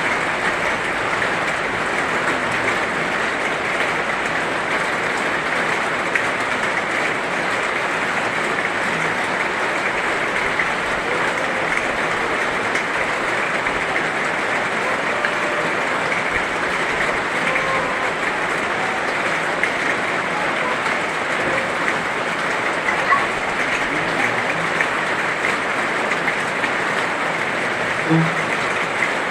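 Heavy rain falling steadily, a dense even hiss with no letup, and a brief low knock near the end.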